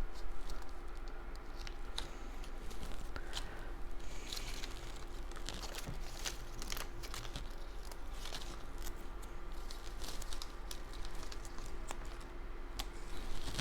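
Cardstock paper pieces being handled and pressed into place: scattered paper rustles, crinkles and light taps.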